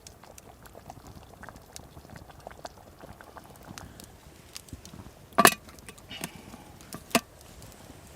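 Cream stew bubbling in a pot over a campfire, with many small pops and crackles. Twice, about five and seven seconds in, comes a sharp clink, the first ringing briefly.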